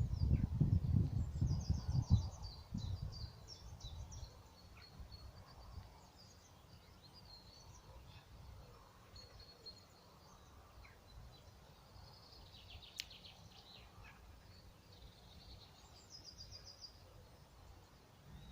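Small birds chirping and trilling faintly in short repeated bursts of song, over a quiet outdoor background. In the first few seconds there is a low rumbling noise on the microphone, and a single sharp click about two-thirds of the way through.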